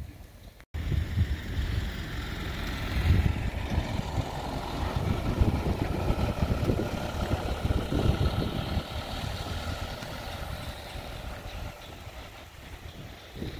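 Wind gusting on the microphone with a low, uneven rumble, over a vehicle engine running steadily. The sound fades near the end.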